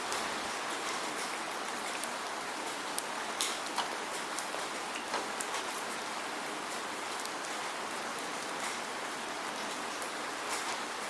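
Steady rain with no thunder: a dense, even hiss of rainfall with many distinct drops ticking on a surface, several of them standing out sharply in the first half.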